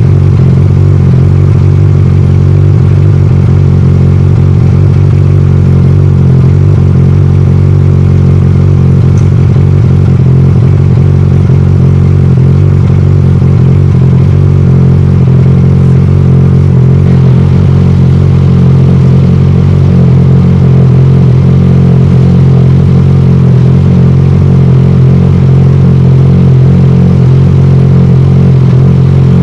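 Exhaust of a Yamaha Aerox 155 scooter's single-cylinder four-stroke engine on its stock pipe, edited to sound deeper and louder like a big bike. It runs as a loud, steady low drone that holds one pitch with no revving.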